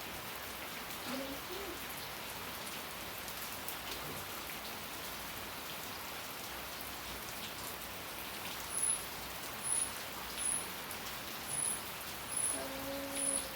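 Steady rain falling. From about nine seconds in, a short high chirp repeats roughly once a second over the rain.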